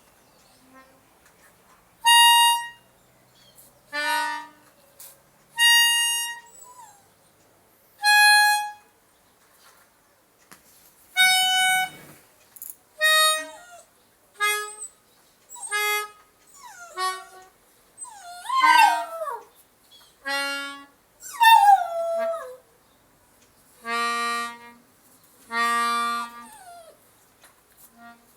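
Harmonica sounding single held notes one to two seconds apart, with a dog howling and whimpering along. The dog's wavering, sliding howls come about two-thirds of the way through.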